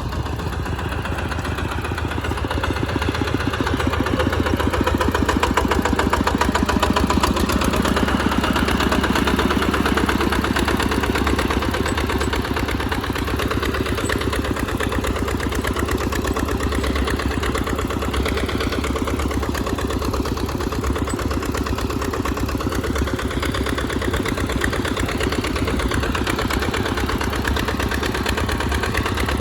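Tractor engine running steadily while plowing through mud. It grows louder a few seconds in, then eases back a little.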